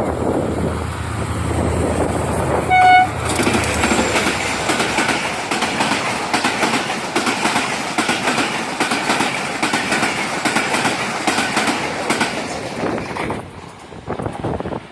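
Train passing: a short horn blast about three seconds in, then a steady, rapid clatter of wheels on the rails for about ten seconds, dropping away near the end.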